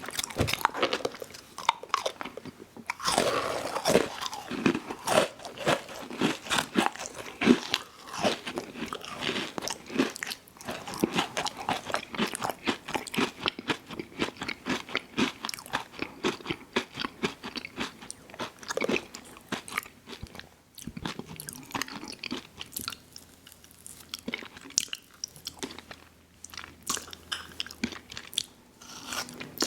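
Close-miked eating of an ice cream sandwich: bites and continuous chewing, full of quick crunchy crackles, with a louder bite about three seconds in.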